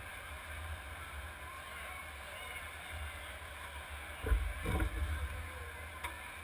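Demolition derby car's engine idling with a steady low rumble, heard from inside the car. Two heavy thumps come about four and a half seconds in.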